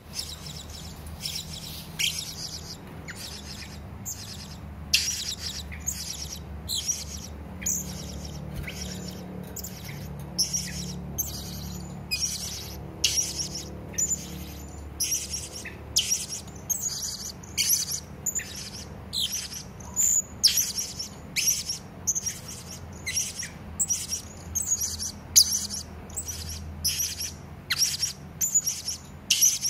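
Hanging parrot (serindit) giving a long run of short, sharp, high-pitched call notes, about one or two a second, some in quick clusters, over a faint steady low hum.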